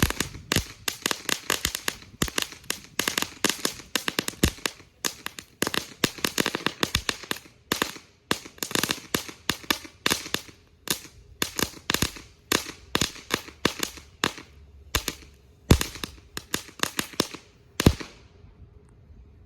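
A long-running consumer firework going off in a rapid series of sharp firecracker-like cracks, several a second, thinning out toward the end and stopping shortly before the close.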